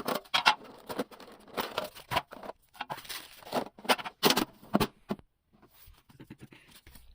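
Irregular rustling, crinkling and scraping of packaging as a Pokémon card tin is unwrapped and opened by hand, with a short lull about five seconds in.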